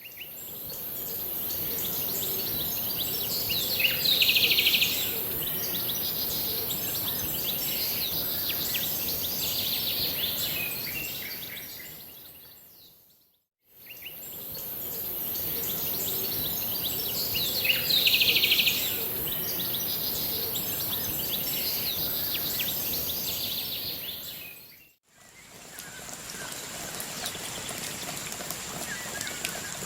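Nature ambience of birds chirping over a steady high-pitched hiss, with one louder call about four seconds in. It fades out, and the same stretch plays again from about 14 s. A different, more even ambience fades in about 25 s in.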